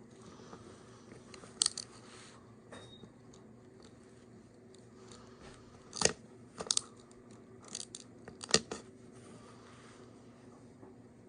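Small sharp plastic clicks and snaps from a SOTO slide gas match lighter being handled and taken apart: one click about a second and a half in, then a cluster of clicks between six and nine seconds. A steady low hum runs underneath.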